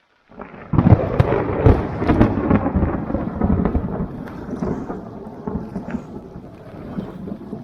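Close thunder from a lightning strike directly overhead: a sudden crackling crash about half a second in, then a rolling rumble that slowly fades.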